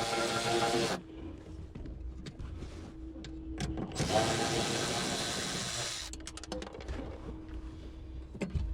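A handheld power tool, such as a cordless drill or driver, runs in two bursts of about two seconds each: one stops about a second in, and the other runs from about four to six seconds in. Light clicks and handling knocks come in between.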